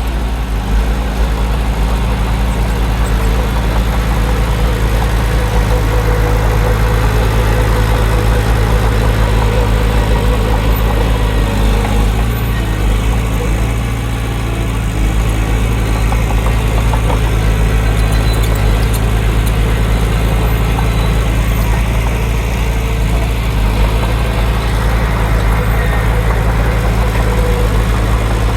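Heavy earthmoving machine's diesel engine running steadily with a deep, even hum, dipping briefly about halfway through.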